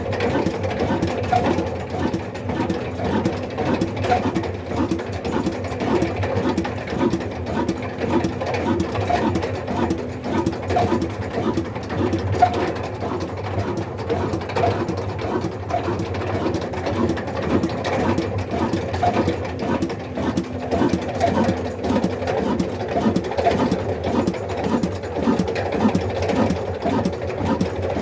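Old black desi diesel engine running steadily at a slow, even beat of roughly two to three pulses a second.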